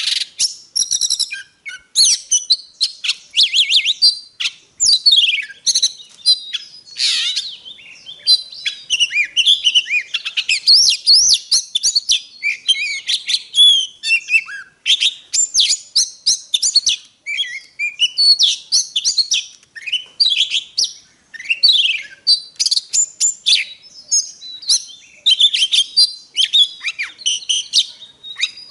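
Oriental magpie-robin singing a long, varied song of rapid clear whistles, sweeping notes and trills, with only brief pauses between phrases.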